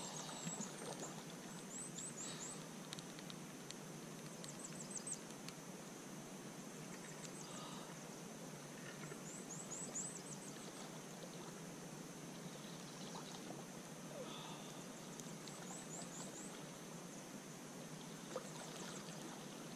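Quiet lakeshore ambience: faint, very high-pitched bird chirps in short quick runs of four to six notes, repeating every few seconds, over a steady high thin tone and a soft background hiss.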